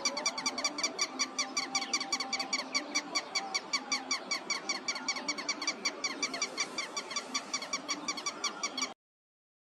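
An animal calling in a rapid, even series of short squeaky notes, each dropping slightly in pitch, about six a second. The calls cut off suddenly near the end.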